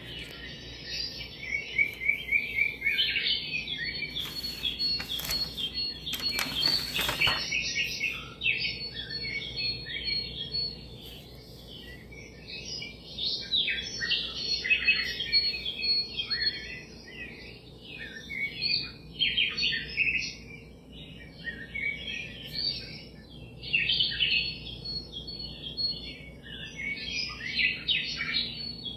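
A flock of small birds chirping together in a dense, overlapping chorus, with a thin high steady trill running through parts of it. A few brief rustling knocks sound about four to seven seconds in.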